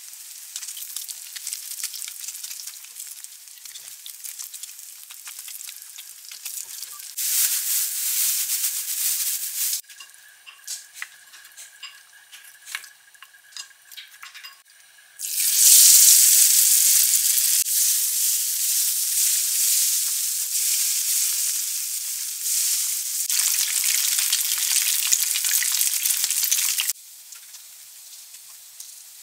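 Battered pieces of young hairtail frying in a pan of oil, with a steady hissing sizzle that grows louder in two long spells. In a quieter stretch in the middle there are light clicks and taps instead.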